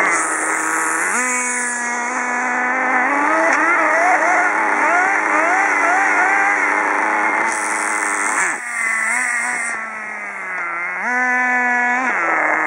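Small high-revving nitro engines of radio-controlled trucks running, the pitch jumping up about a second in, wavering quickly through the middle, dropping low about two-thirds of the way through and climbing again near the end as the throttle is worked.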